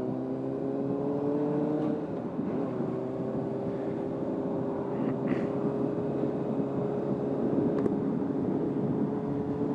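Honda CBR600RR's inline-four engine running steadily while riding, picked up by a microphone inside the rider's helmet. About two seconds in the engine note breaks off briefly and comes back at a different pitch.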